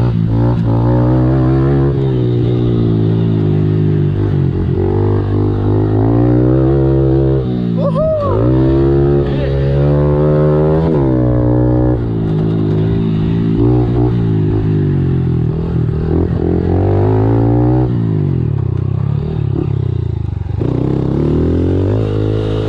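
Small four-stroke single-cylinder pit bike engine being ridden, revving up and easing off over and over as the throttle is worked and gears change.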